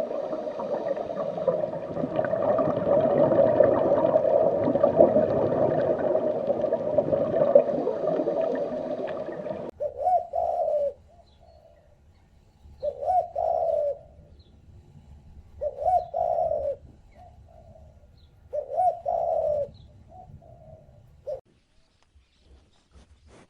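A dense, steady noise for about the first ten seconds, then a pigeon cooing four times, about three seconds apart; each coo is a short falling phrase followed by softer notes.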